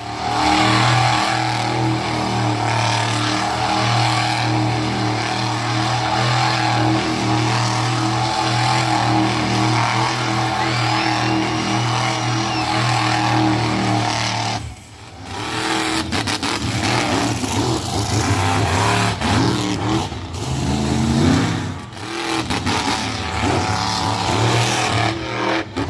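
Monster truck engine running hard, held at high revs as a steady drone for about the first half. After a short break about halfway through, the engine is heard revving up and down with the throttle.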